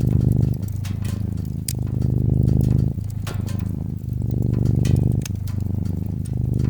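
A cat purring close up: a low, pulsing purr that shifts every second or so as it breathes in and out. Sharp pops and crackles of a wood fire sound over it.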